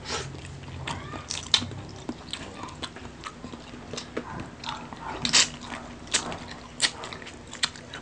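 Close-miked eating sounds: a person biting and chewing food, heard as a run of irregular sharp clicks, several a second.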